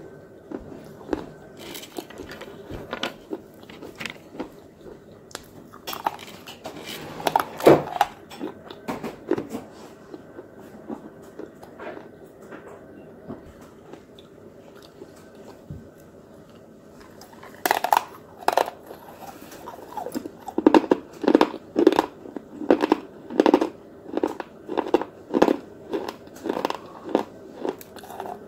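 Biting and chewing hard, brittle pieces of a broken clay pot, crunching. Scattered sharp crunches in the first few seconds, a quieter stretch in the middle, then steady chewing crunches about two a second through the second half.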